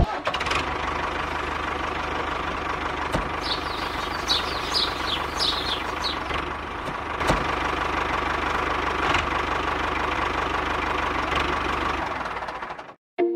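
Small motor of a DIY model tractor running as the tractor drives along, a steady mechanical rattle and hum that fades out near the end.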